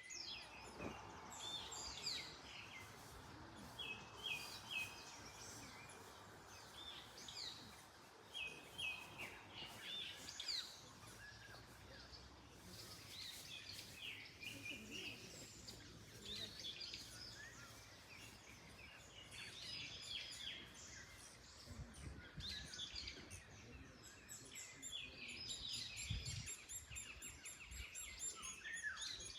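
Several small songbirds chirping and trilling over a faint rustle of wind in the trees, with some soft low thumps near the end.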